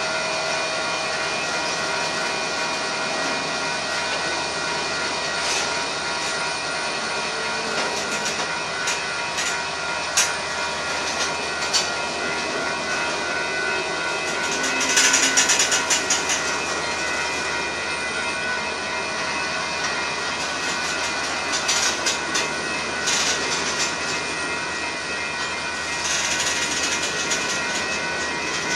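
Union Pacific manifest freight train rolling past close by, mostly covered hopper cars: a steady rumble of wheels on rail with a continuous high ringing, scattered sharp clanks, and louder rattling stretches about halfway through and again near the end as cars go by.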